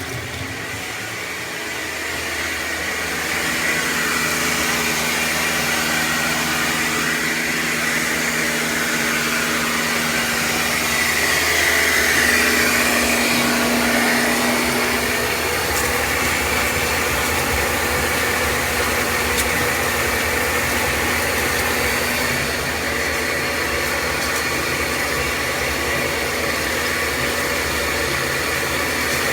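A motor-driven machine running steadily, a hum under a loud rushing hiss, growing a little louder a few seconds in.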